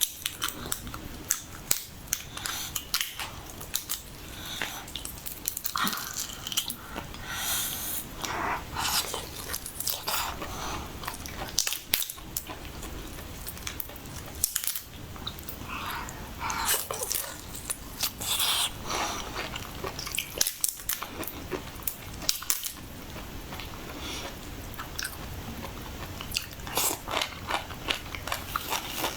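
Close-miked mouth sounds of a person eating: repeated bites and chewing, with many sharp, irregular clicks and crunches.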